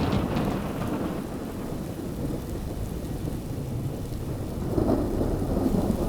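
Heavy rain pouring with deep, rolling thunder rumbling underneath, swelling louder about five seconds in.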